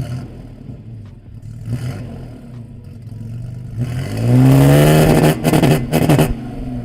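Toyota 4Runner engine running through a freshly fitted catless exhaust with a Dynomax Super Turbo muffler, idling and then revved once about four seconds in. The pitch climbs, is held loud with some crackle for about two seconds, then drops back to idle.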